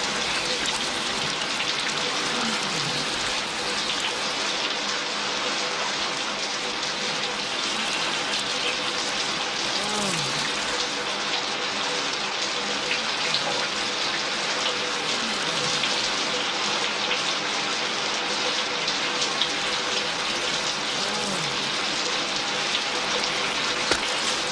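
Steady hiss of falling water, with a few faint low sliding tones every few seconds.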